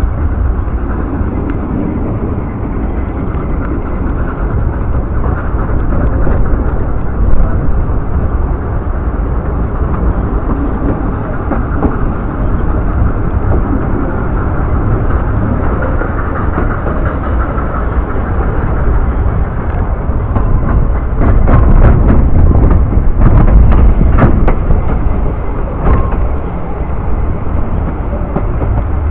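Narrow-gauge steam train running, heard from an open carriage window: a continuous loud rumble of the moving train. About three-quarters of the way through it gets louder, with a run of sharp clicks and knocks.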